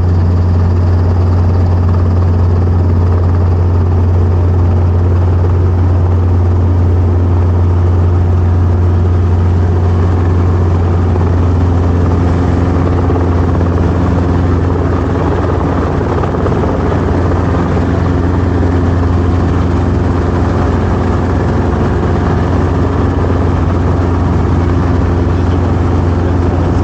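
Training helicopter's engine and rotor running steadily with a deep, continuous drone, its tone shifting slightly about twelve seconds in.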